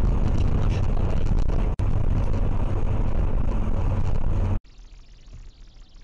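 Steady road and engine rumble of a moving car, heard from inside the cabin. It breaks off for an instant about two seconds in, then cuts off abruptly about four and a half seconds in, giving way to a much quieter faint hiss.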